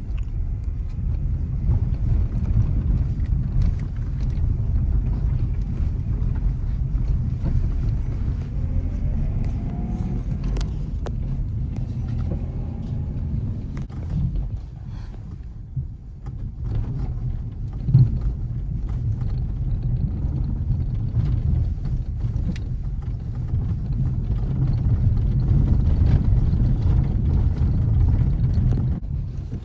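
A Nissan Magnite's 1.0-litre three-cylinder petrol engine and tyres giving a steady low rumble while driving, with scattered faint clicks and one sharp thump about eighteen seconds in.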